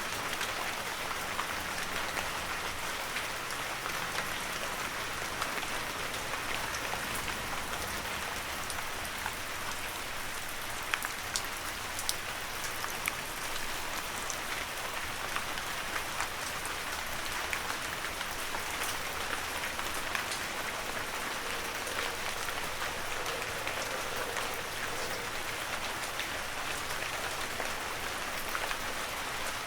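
Heavy rain falling steadily, a dense even hiss with scattered sharper drop hits, a few louder ones around the middle.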